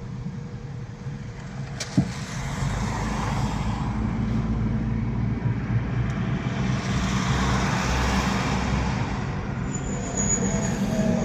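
A car on the move: steady engine and tyre rumble, with a sharp click about two seconds in and a swell of road hiss midway.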